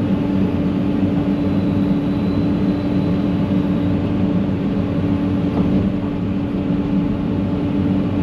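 Diesel engine of heavy land-clearing equipment running steadily at a constant speed, a continuous low hum with a steady tone.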